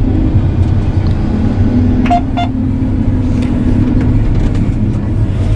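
Large diesel farm machine engine running steadily, a constant low hum. Two short high beeps come about two seconds in.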